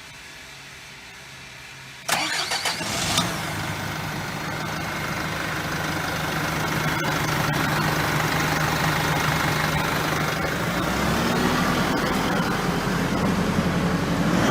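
Large truck diesel engine starting about two seconds in, catching after a few uneven firings, then idling steadily. This is a start-up check of a used engine before it is removed for resale as a recycled part.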